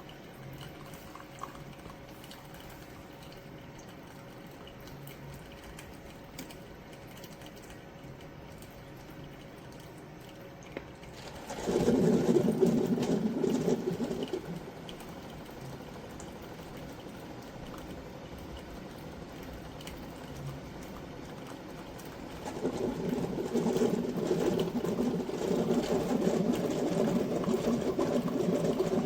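Ninja single-serve coffee maker's pump buzzing as it brews: it starts about a third of the way in, runs for about three seconds, stops, and starts again near the end.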